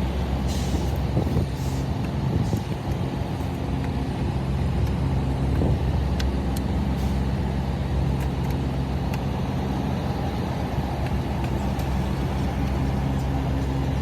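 Heavy diesel engine idling steadily, with a few short hisses of air in the first few seconds.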